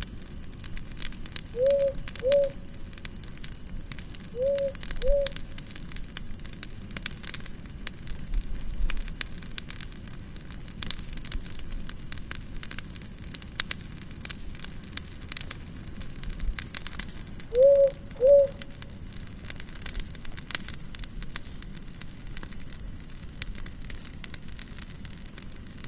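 Wood fire crackling and popping with a steady run of sharp snaps. Three times, a pair of short low pitched notes rises and falls, louder than the fire. A faint short series of high notes follows later on.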